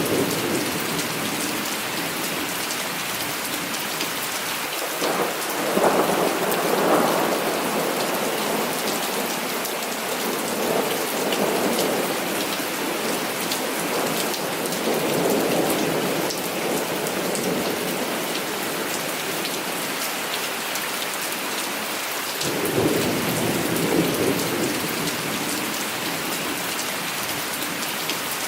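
Heavy rain falling steadily, with rolls of thunder rumbling in twice, about five seconds in and again about three-quarters of the way through.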